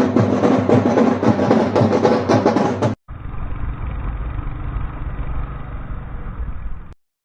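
Drum-heavy intro music for about three seconds, then a sudden cut to the steady low rumble of a Royal Enfield Hunter 350's single-cylinder engine running, which stops abruptly shortly before the end.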